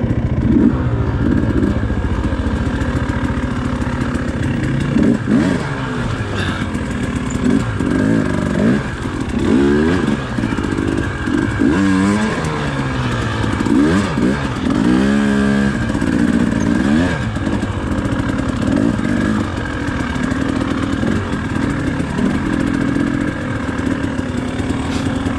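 Dirt bike engine on a trail ride, revving up and down again and again as the throttle is opened and closed.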